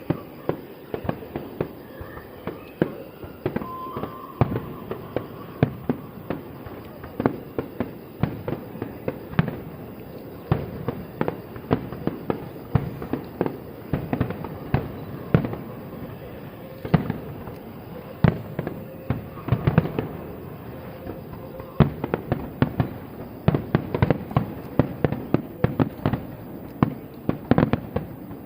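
Fireworks display: aerial shells bursting in quick succession, several sharp bangs a second and some overlapping, with no pause between them.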